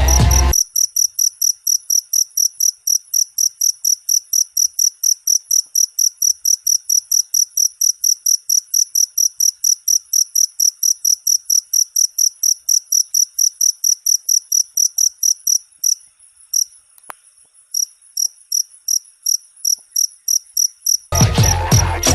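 Cricket chirping in a steady rhythm of about four high chirps a second, faltering and pausing briefly about three-quarters of the way through. Music plays for a moment at the start and comes back in near the end.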